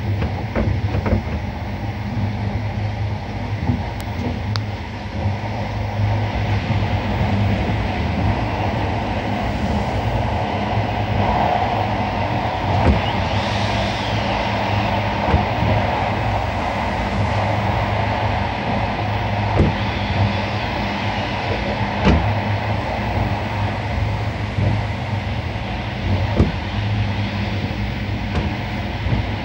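Finnish Intercity passenger train running at speed through a tunnel, heard from inside the coach: a steady rumble of wheels on rails with scattered short knocks from the track.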